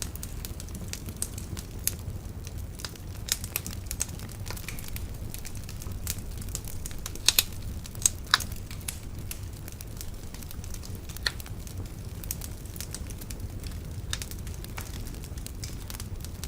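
Wood bonfire crackling: irregular sharp pops and snaps over a steady low rumble, with a few louder pops about halfway through.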